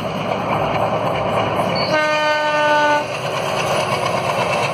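Indian Railways diesel locomotive hauling a passenger train past, with the engine and train running steadily throughout. About halfway through, the locomotive sounds its horn once for about a second.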